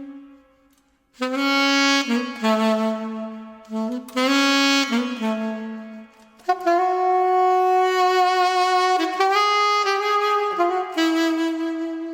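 Solo saxophone playing melodic phrases separated by short breaks, moving into long held notes in the second half.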